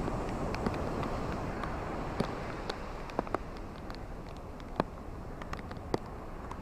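Ocean surf washing on a shore, swelling over the first couple of seconds and then easing, with scattered sharp clicks and crackles through the wash.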